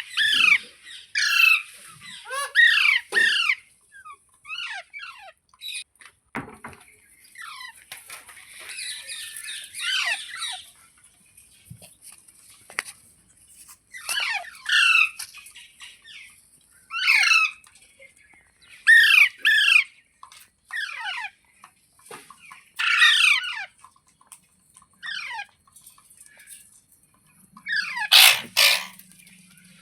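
Green ringneck parakeet screeching in short, harsh calls, mostly in groups of two or three, repeated every few seconds. One louder, fuller screech comes near the end.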